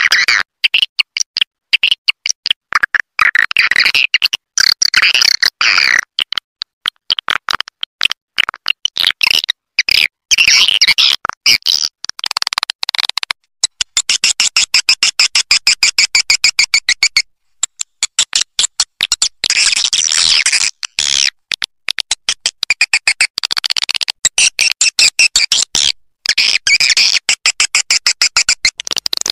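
Swiftlet roosting-call lure recording: rapid trains of clicks and buzzy, twittering chirps, loud and high-pitched. The calls come in repeating bouts separated by brief pauses.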